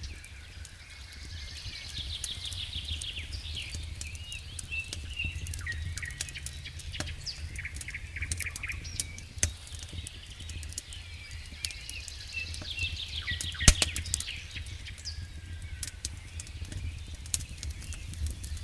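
Wild birds singing in repeated trilled phrases, with a campfire crackling and popping in sharp scattered snaps, one louder pop about three-quarters of the way through, over a steady low rumble.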